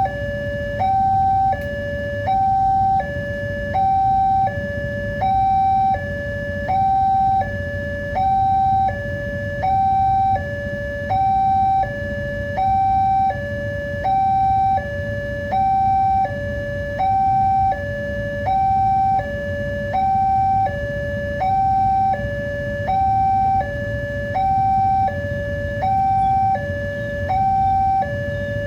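Railway level-crossing warning alarm sounding a steady two-tone pattern, a higher and a lower electronic tone alternating about every eight-tenths of a second. Its continued sounding signals that the crossing barriers are down for an approaching train. A low rumble runs underneath.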